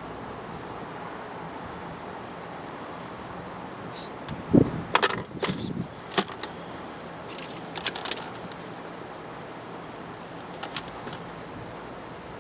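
Metal hand tools clinking and rattling in a few short clusters, a socket and ratchet being picked up and handled, over a steady background hum.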